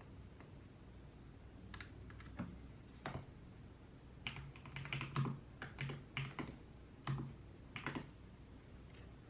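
Typing on a computer keyboard: an irregular run of keystrokes starting about two seconds in, thickest in the middle, and stopping shortly before the end, over a faint steady room hum.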